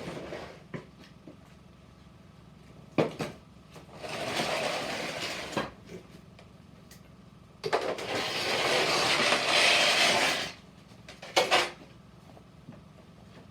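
Two sharp knocks of wood being struck while splitting firewood, about three seconds in and again about eleven seconds in, with two long rushing hisses of a few seconds each in between.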